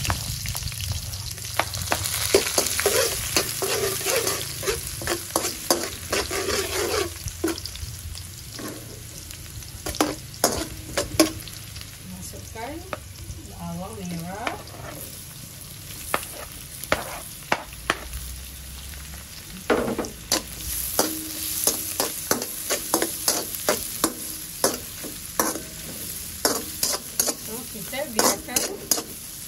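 Chopped aromatics and sliced onions sizzling in hot oil in a stainless steel wok. The sizzle is strongest in the first several seconds and quieter after. Sharp scrapes and knocks of utensils on the metal pan come often, and most thickly in the second half as the food is stirred.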